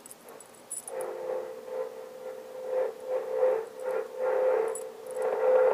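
CB radio receiver putting out static, with a steady whistling tone that comes in about a second in and holds under pulsing hiss.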